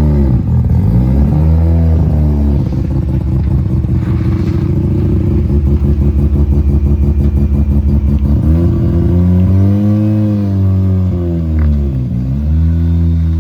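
A rotary-engined car's engine revved up and down twice, with a choppy, lumpy pulsing as it holds between the revs.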